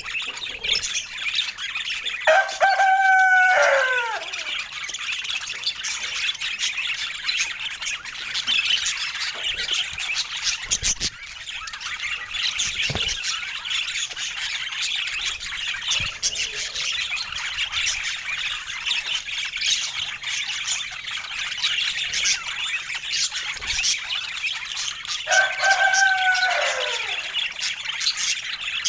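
Budgerigars chattering and chirping continuously, with a rooster crowing loudly twice: once about two seconds in and again near the end, each crow a held note that drops away at its close.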